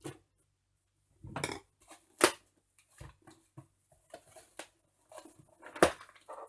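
Old plastic toy packaging and box being handled and pulled apart: irregular crackles and rustles, with two sharp clicks, about two seconds in and near the end.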